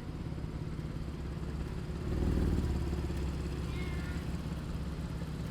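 A car engine running with a steady low hum that swells louder about two seconds in, as if the car is driving past or being revved gently.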